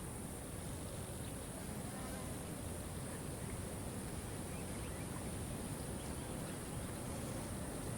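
Steady rush of falling water from a waterfall, with a few faint bird chirps over it.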